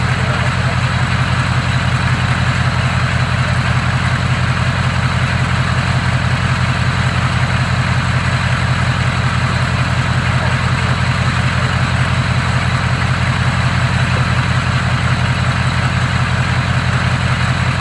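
Ford F-250's Power Stroke diesel V8 idling steadily with a fast, even pulse.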